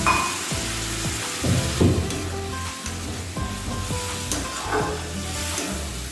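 Jackfruit curry simmering and sizzling in a non-stick wok, its masala freshly wetted with a small glass of water, while a flat spatula stirs it and scrapes the pan a few times.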